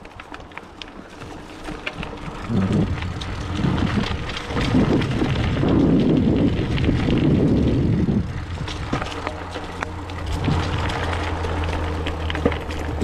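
29er hardtail mountain bike riding over a dirt trail: tyre and drivetrain noise with scattered clicks and rattles over bumps, and wind buffeting the microphone. The rumble grows louder about two and a half seconds in.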